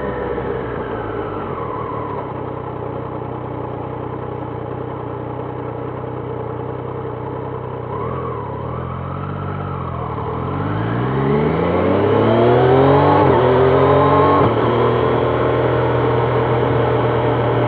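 Triumph Trident 660's inline three-cylinder engine slowing and running low, with a short blip about eight seconds in. It then accelerates, pitch rising steeply, before settling into a steady, louder cruise.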